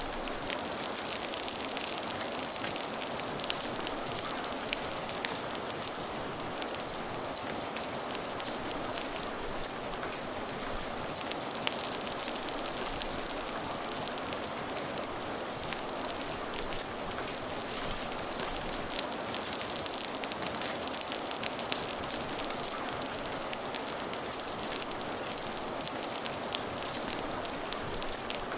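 Steady rain falling, with a crackling fire: an even hiss of rain and frequent small irregular snaps and pops throughout.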